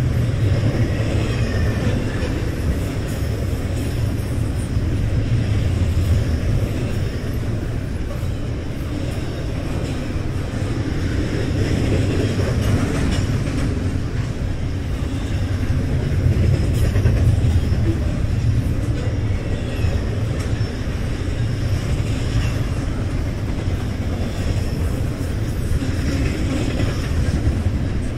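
BNSF double-stack container train's cars rolling past: a steady, loud rumble of steel wheels on rail that swells and eases slightly as the cars go by.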